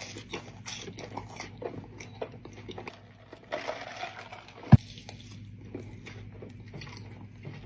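A person biting into and chewing a fried breaded mozzarella stick, with soft crunches and small mouth clicks. A single sharp knock about halfway through.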